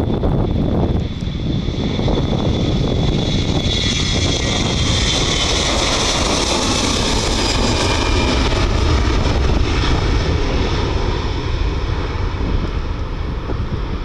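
Airliner engines passing, a high whine that swells in the middle and fades near the end over a steady rumble, with wind buffeting the microphone.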